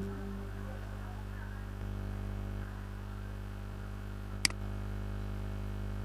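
Steady electrical mains hum in the audio line, with a single short click about four and a half seconds in.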